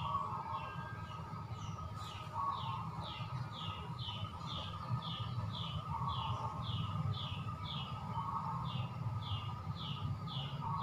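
A bird chirping over and over, about two short falling chirps a second, over a low steady hum.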